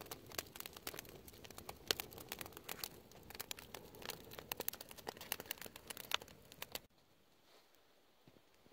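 Dense, irregular crinkling and crunching that cuts off abruptly about seven seconds in, leaving only a faint background hush.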